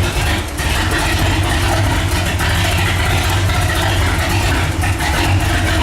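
Walkinshaw Holden V8 in a VK Commodore idling steadily, freshly running after a rebuild.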